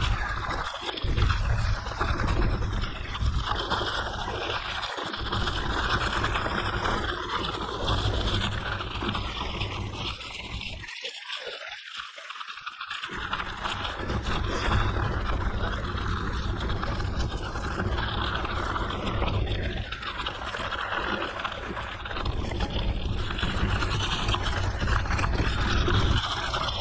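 Wind buffeting the microphone of a mountain bike ride, a steady rumbling rush mixed with the scraping crunch of tyres rolling over a gravel forest road. The low rumble briefly drops away about halfway through.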